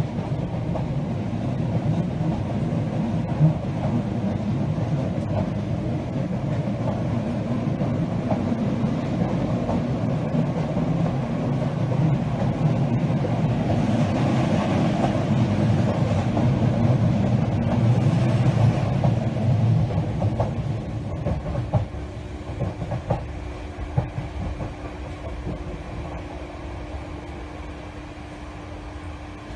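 Running noise of a passenger train heard from inside the carriage: a steady rumble with scattered knocks from the wheels on the rails. It swells around the middle, then gets quieter over the last several seconds, when a steady hum comes in.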